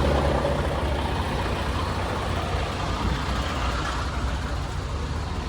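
Semi-truck diesel engine running with a steady low rumble while the rig is maneuvered at low speed.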